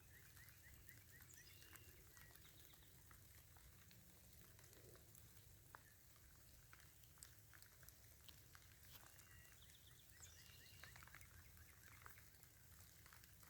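Near silence: faint patter of rain, with a few faint, distant bird chirps in short quick series, near the start and again late on.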